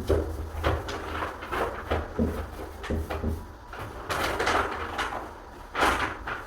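Irregular knocks, clatter and short scrapes from work on a wooden door and its frame, with a louder scrape near the end.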